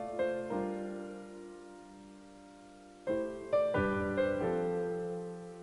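Soft background piano music: a few chords struck and left to ring and fade, a lull of about a second, then another short run of notes.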